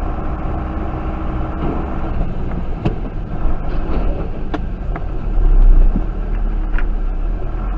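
Car driving noise on a dashcam: a steady low rumble of engine and road with a faint engine hum, a few sharp ticks, and a louder low surge about five and a half seconds in.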